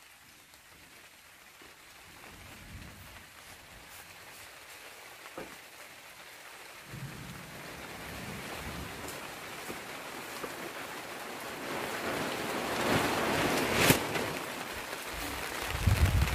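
Rain falling and growing steadily heavier, a rising hiss, with low rumbling coming in partway through.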